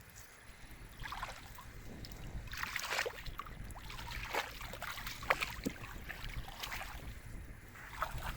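Irregular splashing and sloshing of water, starting about a second in and going on in uneven bursts, with a low rumble of wind on the microphone beneath.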